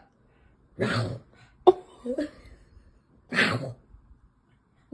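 A dog giving two short, breathy, cough-like huffs about two and a half seconds apart, with a small click between them.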